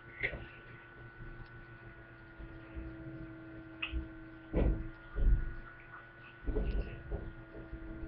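A steady electrical hum, with a few dull bumps of handling noise in the second half.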